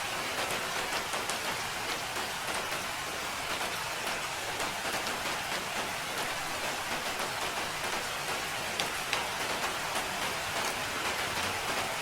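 Steady rain falling, a constant hiss with many small drops ticking on a surface.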